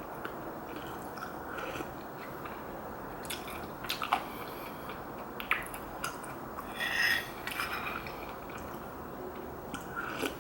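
Quiet, close-miked chewing of Korean rice cake soup with dumplings: small wet mouth clicks and squishes, with one brief louder squishy sound about seven seconds in.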